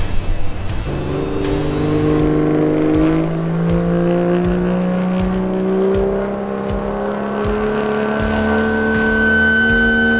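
Cummins diesel pickup truck engine under full load pulling a sled, its pitch climbing slowly and steadily as it pulls. A high steady whine joins in about eight seconds in.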